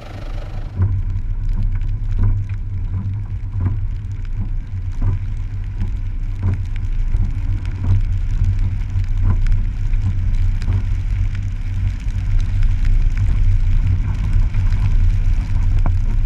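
Mitsubishi Delica driving on, a steady low rumble of the vehicle and road with scattered sharp ticks throughout.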